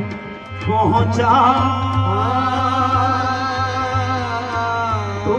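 A sung ghazal-style Urdu/Hindi song: a singer holds one long, wavering note over a steady bass accompaniment.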